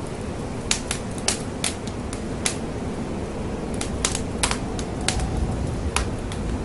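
Wood fire burning in a fireplace: a steady low rumble with about a dozen irregular sharp crackles and pops.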